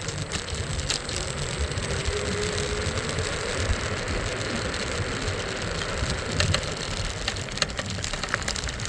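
Scooter ride through city traffic: engines running steadily under a dense low rumble, with scattered short clicks.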